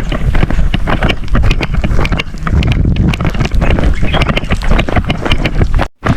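Wind buffeting the microphone while riding a vehicle over a rough track, a loud low rumble with many sharp knocks and rattles. The sound drops out for an instant near the end.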